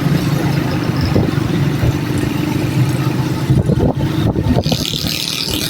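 Motor vehicle engine running steadily, with road and traffic noise while travelling through city streets. There is a brief clatter about three and a half to four and a half seconds in.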